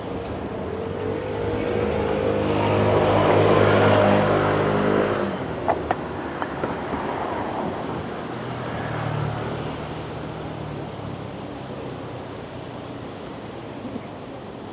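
A motor vehicle passes close by on a city street. Its engine grows louder for a few seconds, then drops away suddenly, followed by a few sharp clicks. A second, fainter vehicle passes a few seconds later.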